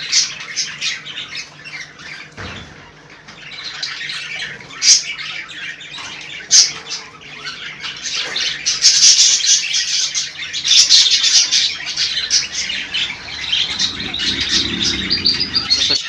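Small cage birds chirping and squawking in quick, high calls, busier and louder in the second half.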